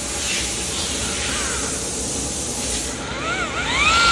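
A steady hiss, then about three seconds in an electric buffer spins up: its whine rises and dips a couple of times before settling into a steady high whine near the end as it starts the third-step cut with a wool pad on the headlight.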